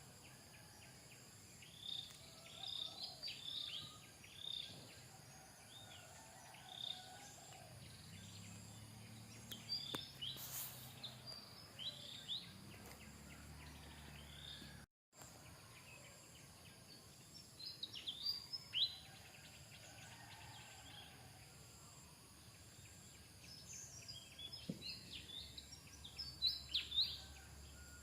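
Short, high-pitched chirping calls in little groups over a steady faint outdoor background, with one brief total dropout about halfway through.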